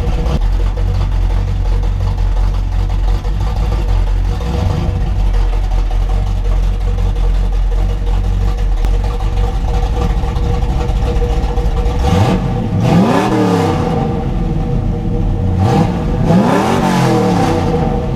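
1979 Camaro Z28's small-block Chevy V8 idling with a steady low rumble, then blipped twice near the end, its pitch rising and falling back each time.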